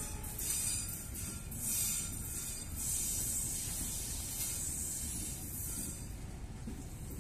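KAI passenger train coaches rolling past on the near track: a steady rumble of wheels on the rails with a high hiss, and a few brief clatters in the first two seconds.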